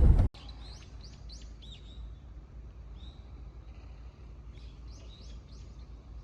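Acoustic guitar music cuts off abruptly just after the start, giving way to small birds chirping: two runs of quick, high, falling chirps, the first at the start and the second near the end, over a steady low outdoor rumble.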